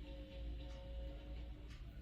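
Needle and thread drawn through cross-stitch fabric in short, soft rasps about once a second, over a low steady rumble and faint held tones.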